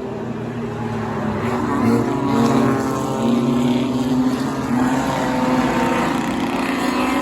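Engines of several street-based enduro race cars running laps together, their overlapping pitches rising and falling as they accelerate and pass.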